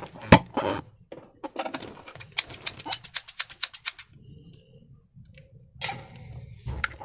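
Slime being squished and pulled by hand, making sticky clicks and crackles: one sharp click at the start, a quick run of crackling clicks about two seconds in, and a short squelch near the end.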